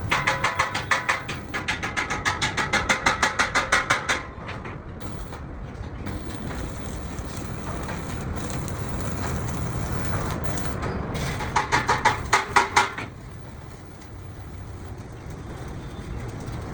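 Rapid, even strikes on metal, about five a second with a ringing tone, for about four seconds, over a steady low workshop rumble. A second short run of strikes comes about three-quarters of the way through.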